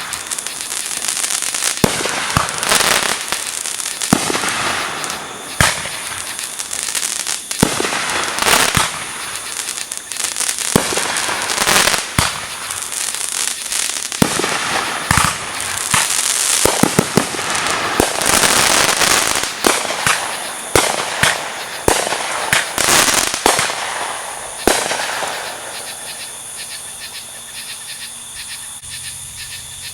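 Fireworks display: a dense run of bangs from bursting shells mixed with crackling. It thins out and grows quieter over the last few seconds.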